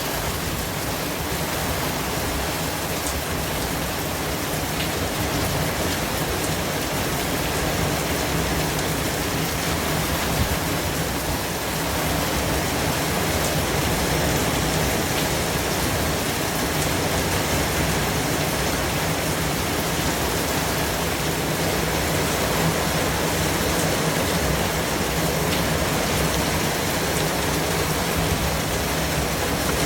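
Steady white-noise hiss, even from low to high pitches, with a few faint ticks; it gets slightly louder about twelve seconds in.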